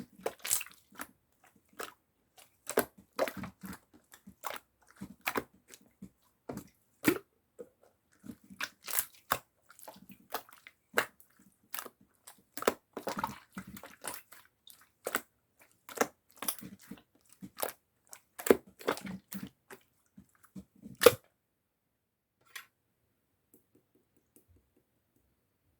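Clear slime being squeezed and poked by hand, making irregular sticky clicks and pops that stop about 21 seconds in.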